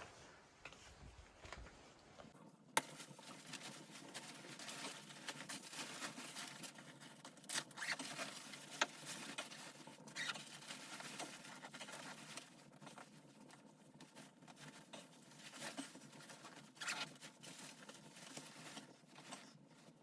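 Faint, steady rustling and crackling with scattered sharp clicks, setting in about two seconds in.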